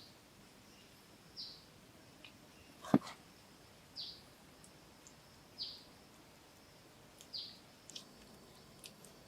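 A bird's short high call, repeated about every second and a half over a faint steady high hiss, with one sharp crack about three seconds in.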